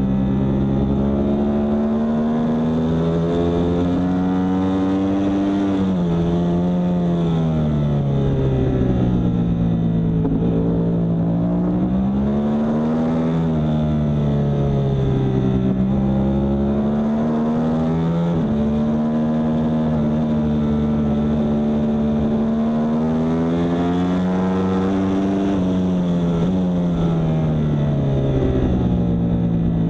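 Yamaha R1 superbike's inline-four engine under way on a race track, its pitch climbing over several seconds and falling again as it accelerates and slows through the corners, with a sudden jump in pitch around two-thirds of the way in.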